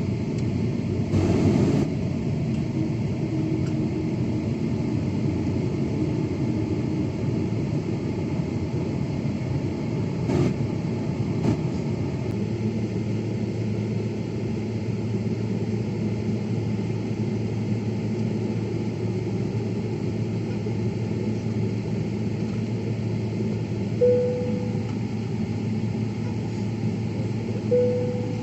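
Steady low rumble of an airliner cabin, with engine and air-circulation noise, while the jet waits to take off. There is a brief louder bump about a second in, a click about ten seconds in, and two short tones near the end.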